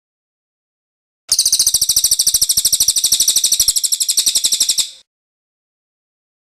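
Cililin bird singing its rolling song: one high, rapid, evenly pulsed trill lasting about three and a half seconds, starting over a second in and stopping abruptly.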